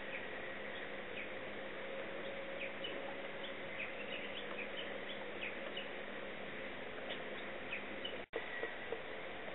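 Outdoor ambience: a steady hiss with many short, high chirps of small birds scattered throughout. The sound drops out for an instant a little past eight seconds in.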